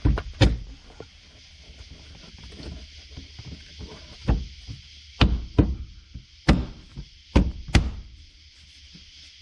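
About eight sharp knocks and thuds, spaced unevenly: hands pressing a car's re-covered headliner and interior trim panels up into their clips.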